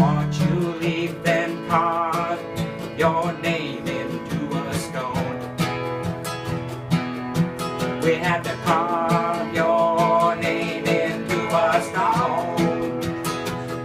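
Acoustic guitar strummed in a steady country-folk rhythm during an instrumental break, with a wavering melody line played over the strumming.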